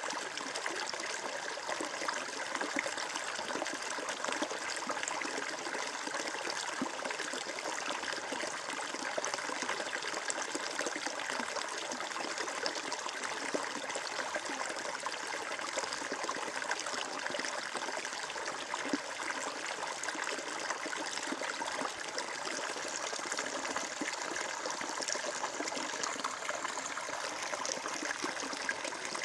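Water flowing and trickling in a steady babbling stream, an even rush with fine splashing texture throughout.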